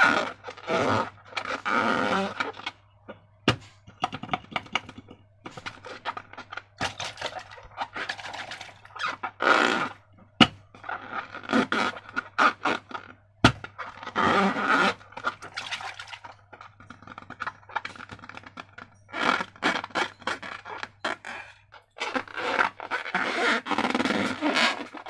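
Slime being squeezed and worked in and around balloons: irregular wet squelching and scraping in bursts of a second or two, with sharp knocks now and then, over a steady low hum.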